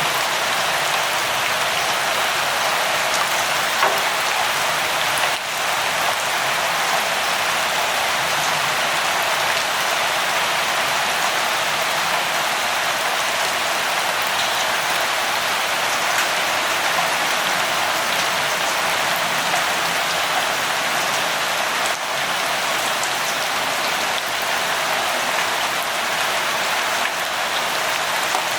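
Steady light rain falling, an even hiss of drops with a few faint separate drop ticks.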